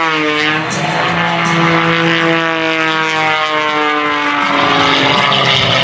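Pitts S2S aerobatic biplane's engine and propeller, a nearly 330-horsepower piston engine, droning in flight. Its pitch drops sharply near the start, then slides slowly lower.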